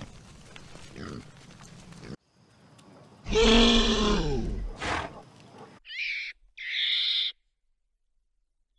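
Faint pig-pen sounds with pigs snuffling in straw, then a Highland cow mooing once, a long, loud, low call that falls in pitch. After it come two short high-pitched animal calls.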